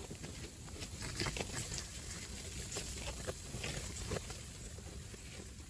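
Strong wind buffeting the microphone as a steady low rumble, with scattered light taps and pattering through it.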